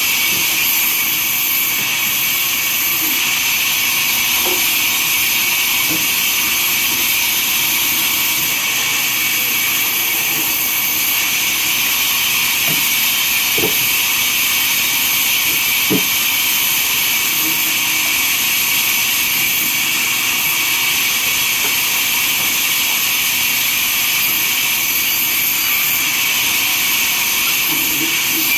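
Sawmill saw machine running through wood: a steady loud hiss with a high whine over it, and a few faint knocks.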